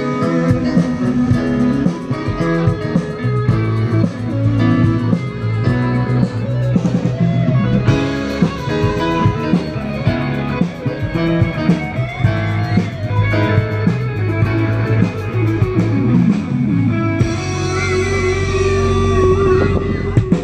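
Instrumental section of a rock song: guitars over bass and drums, with no singing. In the last few seconds the texture thins to a long held note.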